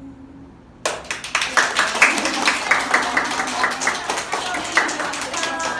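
A small group clapping, starting suddenly about a second in, with voices calling out over the applause.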